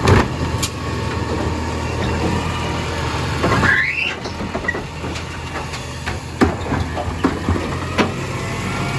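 Compost garbage truck's engine running steadily, with a sharp knock at the start, a short rising squeal about halfway through, and a few clicks near the end.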